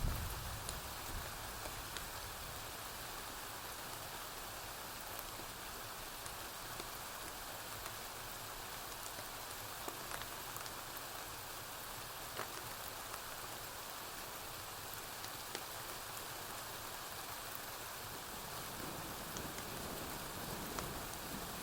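Steady rain falling on a porch roof, an even hiss with scattered faint sharp clicks and pops. A short low rumble of thunder dies away right at the start, and low rumbling starts to build again near the end.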